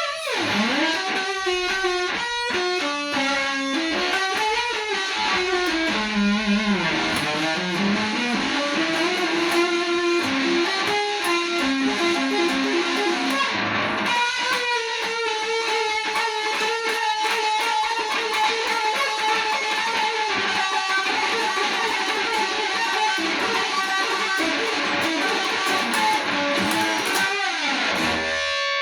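Electric guitar playing a blues-rock solo: notes bent up and down in pitch, long sustained notes, and a run of quickly repeated notes about ten to thirteen seconds in. Near the end come falling pitch dives.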